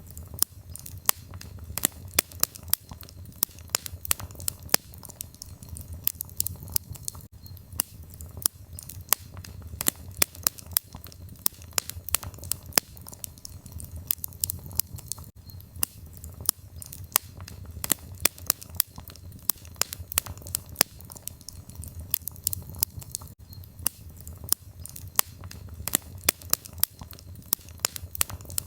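Firewood burning in a fireplace: irregular crackles and pops, several a second, over a steady low rumble.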